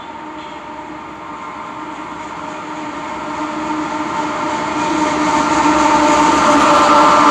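Freight train approaching, growing steadily louder, with a steady drone of several held tones over its rumble.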